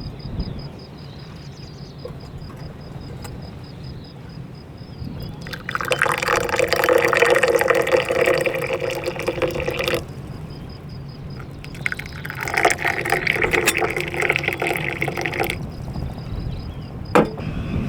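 Tea being poured into a cup in two pours of about four seconds each. A single sharp click comes near the end.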